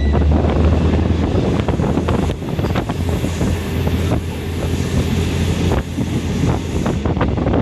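Train running along the line, heard from on board: a steady low rumble with short clicks and knocks from the wheels and track, and wind rushing on the microphone that grows louder between about two and seven seconds in.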